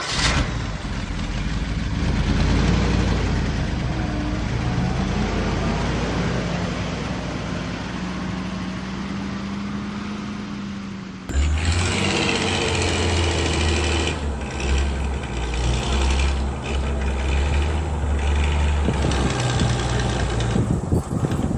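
Small motor of a toy mini tractor running steadily with a whirring, machine-like noise; about halfway through the sound changes abruptly to a heavier, lower hum.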